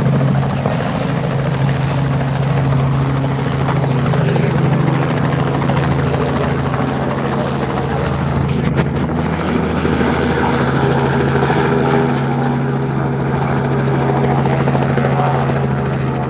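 Tour helicopter running steadily with a constant low hum.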